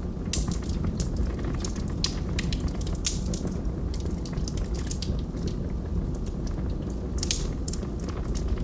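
Wood logs burning in a fireplace: a steady low rumble of flame with frequent sharp pops and crackles scattered throughout.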